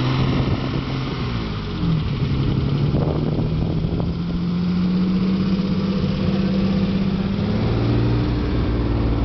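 BMW car engine running steadily at raised revs. Its pitch dips and rises again about two seconds in, holds nearly level, then changes near the end.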